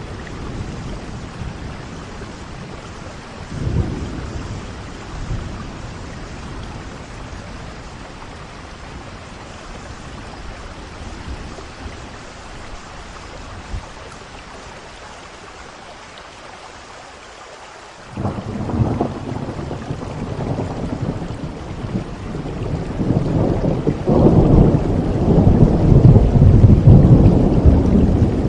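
Steady rain with rolling thunder. A short low rumble comes a few seconds in; about two-thirds of the way through, thunder breaks in suddenly and rolls on, growing louder to the end.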